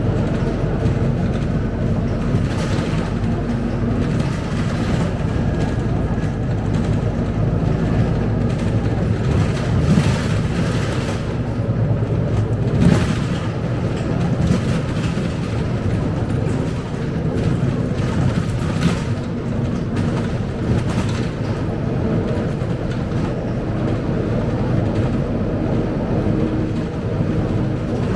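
Cabin noise of a Scania K270UB single-decker bus under way: a steady engine drone and road noise, with several brief rattles and knocks from the body. The loudest knock comes a little under halfway through.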